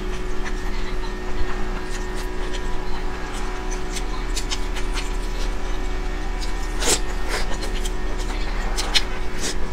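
Close-miked chewing of wide flat noodles, with scattered wet mouth clicks and smacks and a louder smack about seven seconds in. A steady low hum runs underneath.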